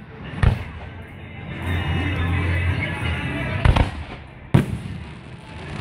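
Aerial fireworks shells bursting: a boom about half a second in, then a quick double boom and another single boom about a second later.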